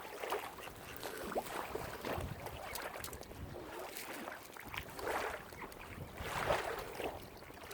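Water splashing and lapping in irregular swells about a second long, with some wind on the microphone.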